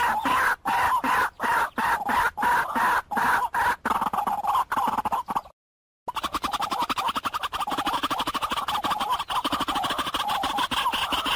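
White-breasted waterhen calling: a loud run of rapid, repeated croaking notes, broken by a brief dead gap about halfway through where the recording cuts.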